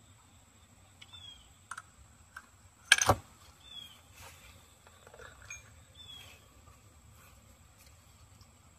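A bird calling in short descending chirps, three times, over a quiet background. A few faint clicks and one sharp knock about three seconds in.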